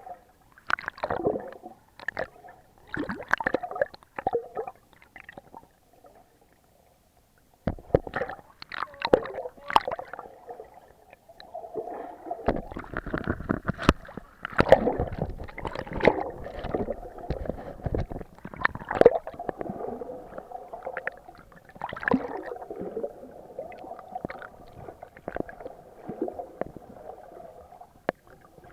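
Water gurgling and sloshing around an SJ4000 action camera's waterproof case, heard muffled and in irregular bursts, with a near-silent pause about six seconds in.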